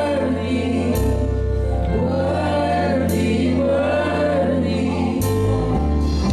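Gospel music: a choir singing over a band, with a bass line changing notes and a cymbal crash about every two seconds.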